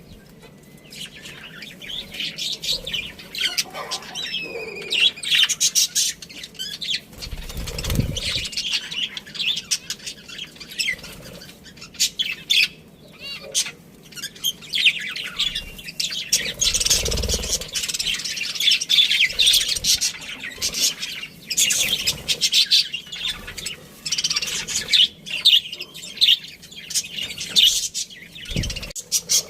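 Budgerigars chirping and chattering, many rapid high calls overlapping, with a few dull low thumps.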